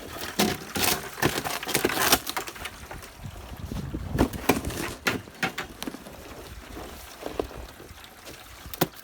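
Footsteps crunching through snow: a dense scuffing crunch for the first two seconds, then uneven single steps, turning into a steady walking rhythm near the end.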